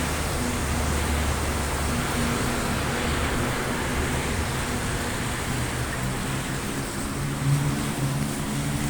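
Heavy rain falling steadily, with traffic on a wet street beneath it; a vehicle's engine hum grows louder about seven seconds in as it passes close.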